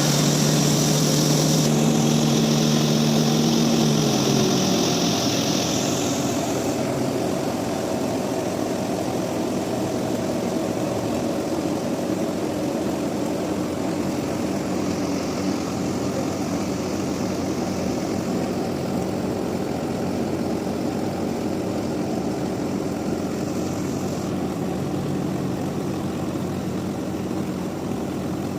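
Sawmill machinery running with a steady drone. It is louder at first, with a high hiss and a steady hum that drops in pitch and eases off about five seconds in, then settles into an even running drone.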